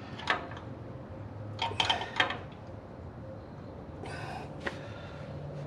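Hand tools tightening bolts on a truck's front suspension: scattered metallic clicks and clinks, a small cluster about two seconds in and a brief rasping stretch about four seconds in, over a steady low hum.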